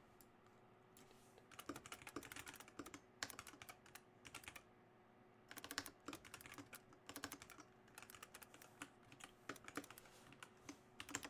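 Typing on a computer keyboard: quick runs of key clicks in uneven bursts, with a short pause about halfway through.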